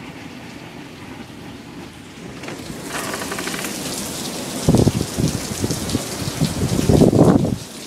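Heavy rain in a severe thunderstorm, a steady hiss that grows louder about a third of the way in. About halfway through, and again near the end, there are loud low rumbling bursts.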